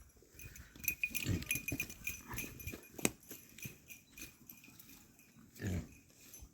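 Farm animals making two short, low grunts, one about a second in and one near the end, amid scattered small clicks and shuffling, with one sharp click near the middle.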